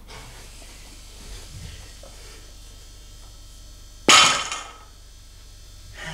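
One loud metallic crash about four seconds in, dying away over about half a second, over a low steady room hum: weight plates on a loaded barbell clanking as the bar is set down.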